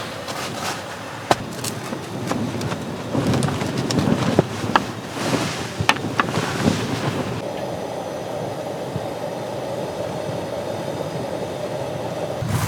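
Storm wind of about 13 m/s buffeting a tent, with sharp snapping of the flapping fabric over gusting swells. About seven seconds in, the sound changes abruptly to a steadier, duller wind noise.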